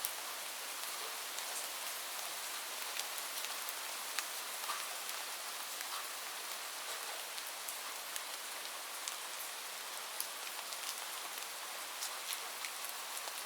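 Rain falling on a roof: a steady hiss dotted with many sharp taps of single drops, with no thunder.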